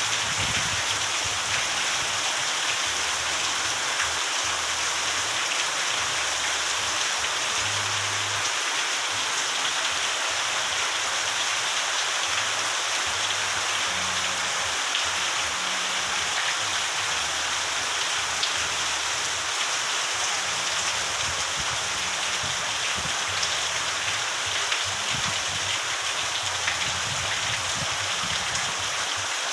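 Steady rain falling: a dense, even hiss with scattered ticks of individual drops.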